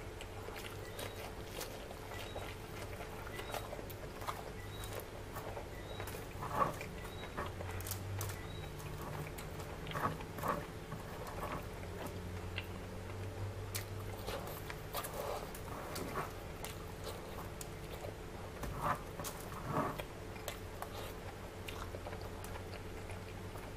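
Close-up mouth sounds of eating rice and curry by hand: chewing with scattered wet clicks and lip smacks, louder a few times, about 7, 10 and 19–20 seconds in. A steady low hum runs underneath.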